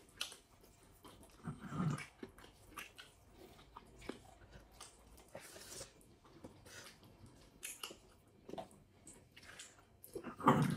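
Chewing and soft mouth noises of people eating goat biryani by hand, with faint scattered clicks. A louder low sound comes about two seconds in and again just before the end.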